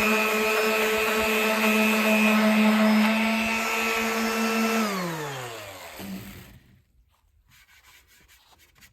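Electric sander with 220-grit paper running steadily against a wooden kick drum shell, then switched off about five seconds in, its motor pitch falling as it winds down to a stop.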